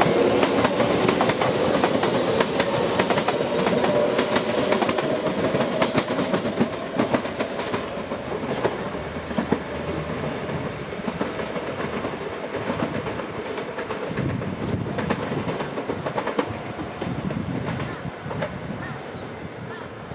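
Kintetsu Gose Line electric train moving slowly through the station's points, its wheels clacking over rail joints and turnouts, with a steady motor tone early on. The sound gradually fades, with faint wheel squeals near the end.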